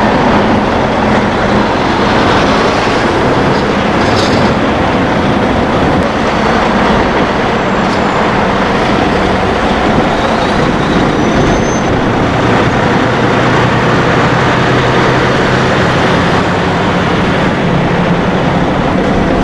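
Steady, loud rumble of heavy vehicles running past, with a low engine drone underneath.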